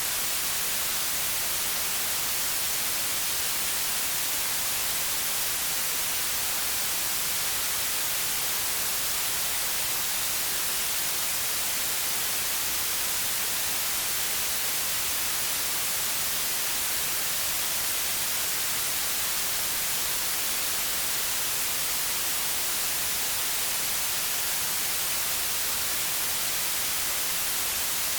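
Steady white noise: an even, unbroken hiss, brightest in the high treble, with no change in level.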